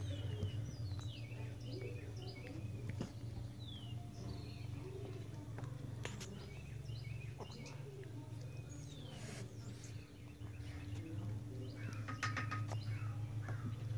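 Small birds chirping in the background, many short falling chirps with a brief buzzy call about twelve seconds in, over a steady low hum, with a few scattered light clicks.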